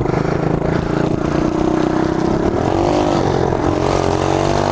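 Small mini-bike engine running, then revving up with its pitch rising and wavering about halfway through.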